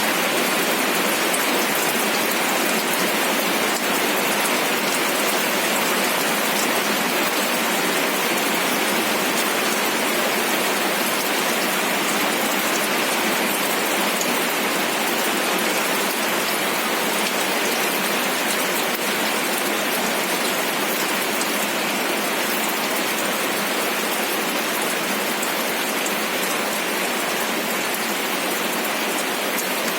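Steady rainfall: an even hiss of rain with fine drops pattering on a surface, unchanging throughout.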